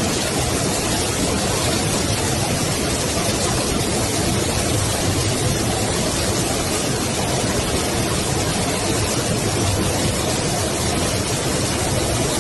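Steady, even rush of fast-flowing floodwater, a loud continuous roar of torrent water.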